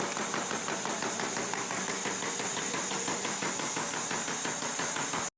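Wooden-slat shear chopping slats into short lengths in a rapid, even clatter of cutting strokes over a steady high hiss. The sound cuts off abruptly near the end.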